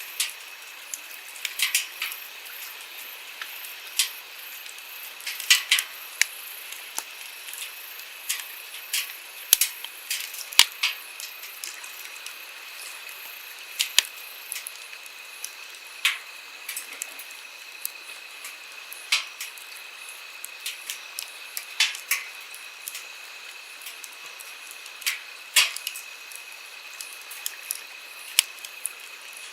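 Wood campfire crackling, with irregular sharp pops and snaps, some much louder than the rest, over a steady hiss of flowing stream water.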